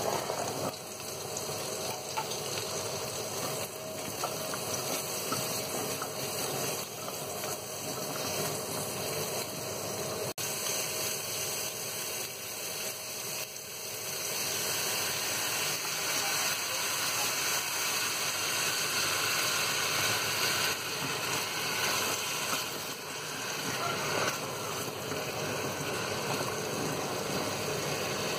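Butternut squash cubes sizzling in hot oil in a stainless steel pot, a steady hiss. The hiss grows louder about halfway through as liquid is poured into the pot.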